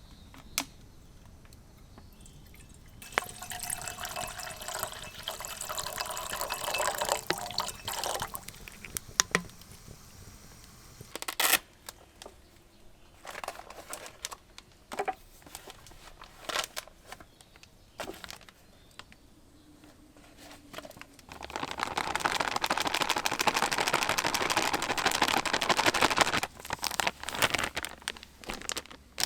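Liquid being poured into a vessel in two pours of a few seconds each, with small clicks and knocks of cookware in between.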